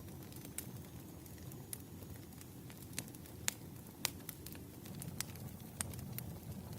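Burning firewood crackling, with sharp irregular pops over a low, steady rush of flame; the loudest pops come a few at a time around the middle.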